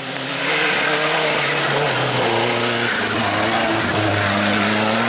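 Rally car running hard past the spectators at high revs, loud from the start, its engine note stepping in pitch a few times as it goes.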